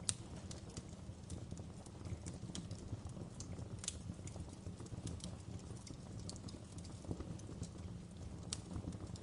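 Wood fire crackling: a steady low rumble of flames with irregular sharp pops and snaps, a few louder pops scattered through.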